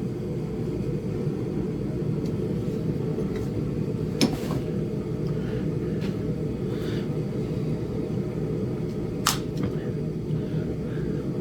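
Two sharp clicks about five seconds apart: a hammer striking a punch set against a Flint Ridge chert point in indirect-percussion flintknapping, thinning the base. A steady low rumble runs underneath.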